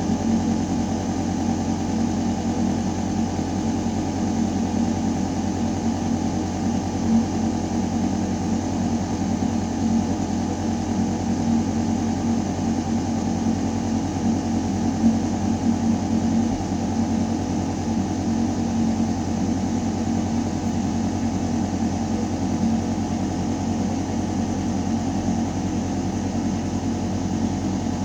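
Building ventilation system humming steadily: a deep mechanical drone with air rushing through metal ductwork.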